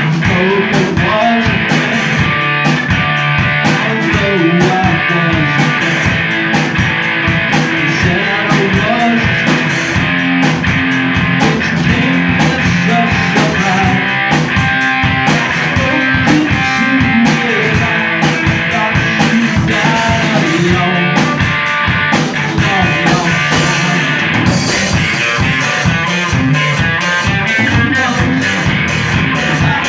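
Rock band playing live: guitars over a drum kit at a loud, steady level.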